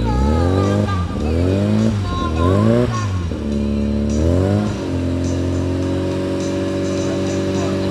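A car engine revved several times, its pitch rising and falling with each rev, then settling to a steady idle about five seconds in.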